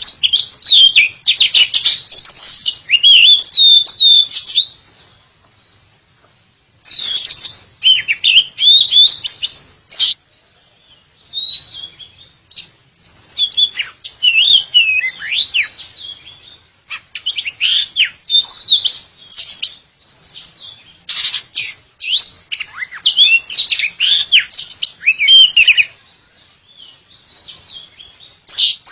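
Oriental magpie-robin (kacer) singing a rapid, varied song of whistles, slurred glides and chatter, delivered in bursts a few seconds long with brief pauses between them.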